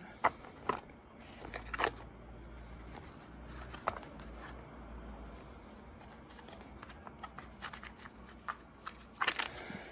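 Coin packaging being handled: scattered light clicks and rustles as a coin is taken out to be looked at, with a small cluster of clicks near the end.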